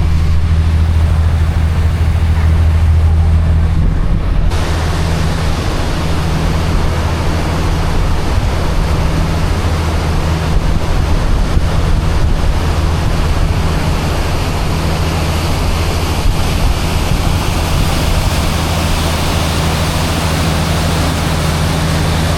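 Steady low drone of a tour boat's engine under a loud rushing noise of wind and water. The rushing turns brighter and louder about four seconds in.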